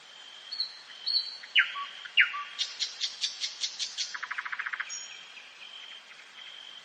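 Nightingale singing one phrase. It opens with two high whistles and two sharp downward-sweeping notes, then gives a run of loud clipped notes at about six a second and a fast, lower rattling trill, and trails off near the end.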